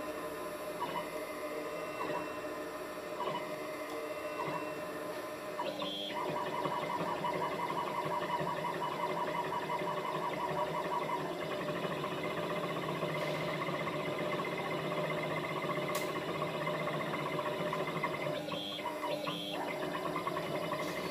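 CNC metal engraving machine running: motor whine with several steady tones over a mechanical hiss. The sound changes about six seconds in and again briefly near the end, as the machine moves differently.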